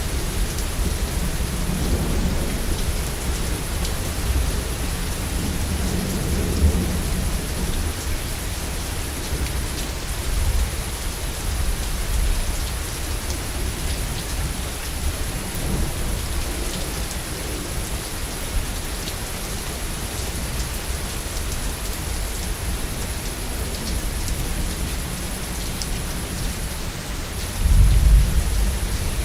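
Heavy rain falling steadily with thunder: low rolling rumbles through the first several seconds, and a louder clap of thunder rumbling near the end.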